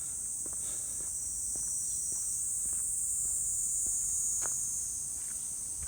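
Steady high-pitched drone of a summer insect chorus, with light footsteps walking underneath it.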